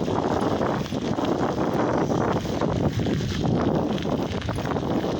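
Wind buffeting the microphone while riding a bicycle: a steady, rough rushing noise.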